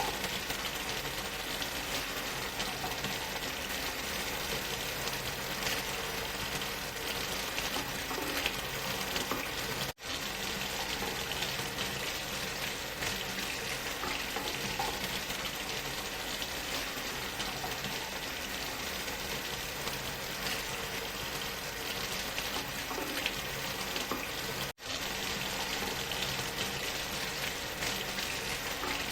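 Steady rushing hiss of a waterfall's falling water, dense and even with fine crackle in it. It cuts out for an instant twice, about ten seconds in and again near twenty-five seconds.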